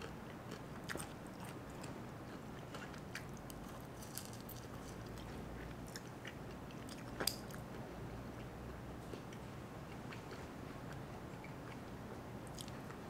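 Faint chewing and crunching of a fried chicken wing, with scattered small clicks as meat is picked off the bone by hand; one sharper click about seven seconds in.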